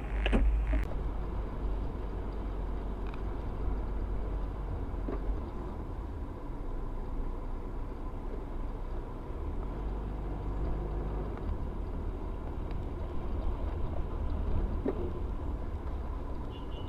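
A car driving: steady low rumble of engine and road noise, with no impact.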